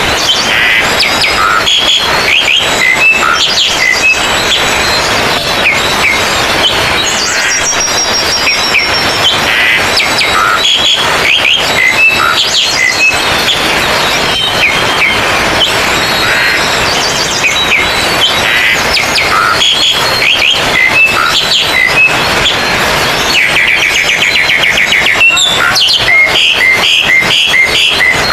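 Many oriental magpie-robins (kacer) singing at once: a dense, loud, overlapping chorus of whistles, chirps and slurred calls, with a fast rattling trill near the end.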